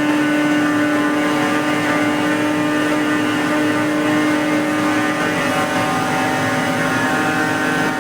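Danfoss 90R250 axial piston hydraulic pump running steadily on its engine-driven test bench, a loud even drone with a strong whining tone. Its control current has just been turned down, so it is running at reduced flow.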